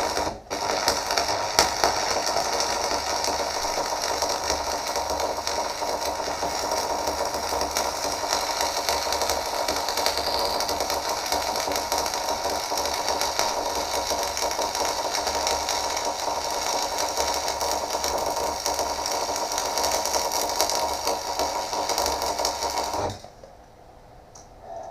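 Welding arc crackling and sizzling steadily as a bead is laid, with a brief break just after the start, then cutting off suddenly about 23 seconds in.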